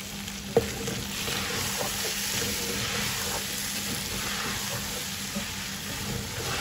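Chicken pieces and spices sizzling in a pot while a wooden spatula stirs them, with a sharp knock about half a second in.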